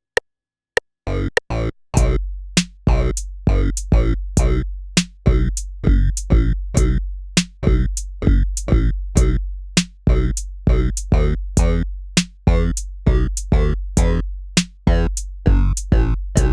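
Electronic music: a drum-machine beat of sharp hits about twice a second over a sustained synth bass, starting with a few sparse hits and settling into the steady groove about two seconds in.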